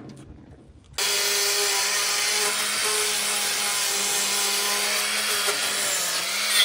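A power tool running steadily with a harsh grinding or sanding hiss, starting suddenly about a second in.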